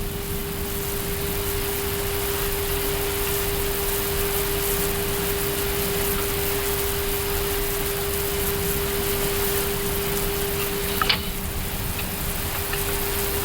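Steady hiss of an Airbus A380 flight deck's air conditioning and avionics cooling at the stand, with a steady electrical hum under it. A single short click sounds about eleven seconds in.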